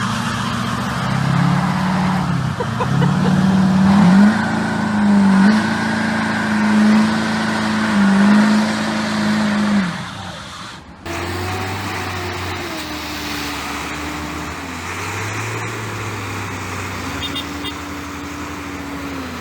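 A motor vehicle's engine running, its pitch rising and falling with the revs for about ten seconds. It cuts off abruptly, and from about eleven seconds another engine runs more steadily with small changes in pitch.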